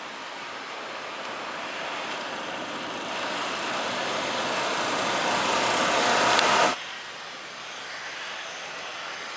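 AgustaWestland AW139 twin-turbine helicopter's engines and rotor running: a dense rushing whine that grows steadily louder, then drops abruptly about two-thirds of the way through to a quieter steady rush.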